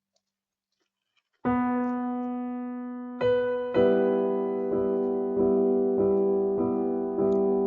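Instrumental background music on a piano-style keyboard: after about a second and a half of silence a note sounds and is held, then chords are struck again and again at an even pace.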